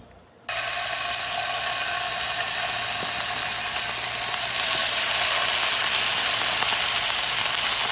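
Food sizzling in a hot pan, a steady hiss that starts suddenly about half a second in and grows a little louder partway through.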